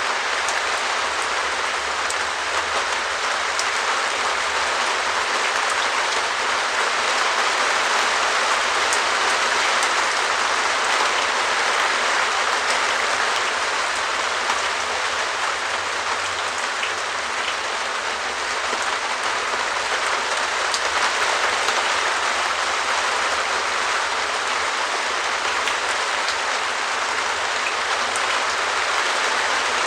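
Rain pattering steadily on a perspex shed roof, a dense even hiss of drops on the plastic sheeting with the odd louder single drop.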